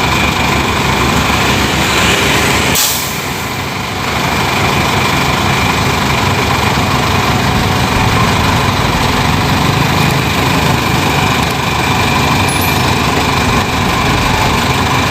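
Heavy diesel engines of road-paving machinery running steadily, with a short hiss about three seconds in.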